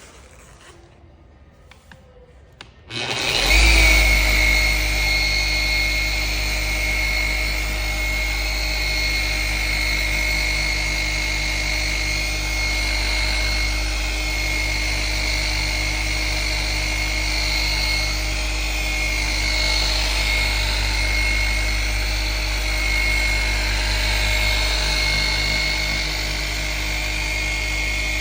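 Handheld electric paint-correction machine starting up about three seconds in and running steadily, with a steady whine over a low hum, as it works minor defects out of car paintwork.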